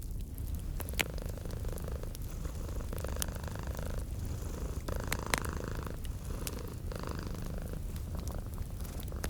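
Domestic cat purring steadily, a low pulsing rumble, with a wood fireplace crackling and popping in scattered sharp clicks over it.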